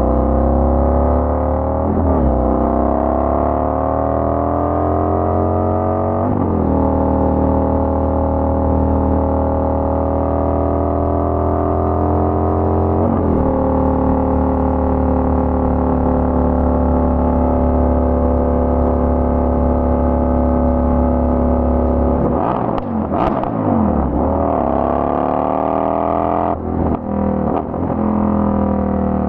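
Indian FTR 1200's V-twin engine running through an aftermarket Toce exhaust while riding. It pulls up through the gears, its pitch climbing and then dropping at upshifts about two, six and a half and thirteen seconds in, cruises at a steady note, and near the end drops and picks up speed again several times.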